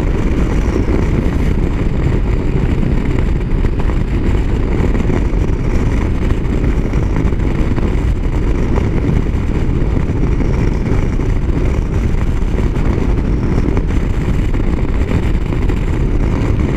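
Motorcycle riding at highway speed, around 70 mph: steady, loud wind rush over the microphone mixed with the engine's running drone, with no change through the stretch.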